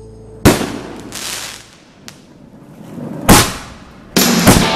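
Aerial fireworks shells bursting: one sharp report about half a second in and another about three seconds in, each fading out over about a second. Music comes back in near the end, with more bursts over it.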